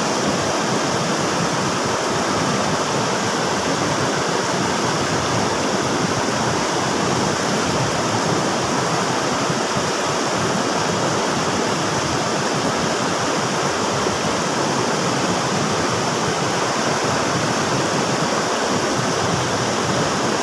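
River water rushing and splashing steadily, a dense, even rush with no pauses or changes.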